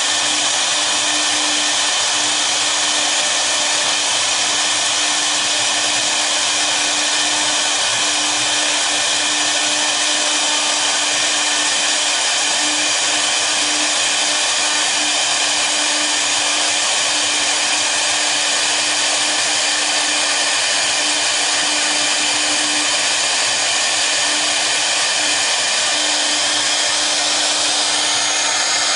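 Spindles of a double-head CNC router running steadily, a dense high hiss over a steady hum. A thin higher whine comes in near the end.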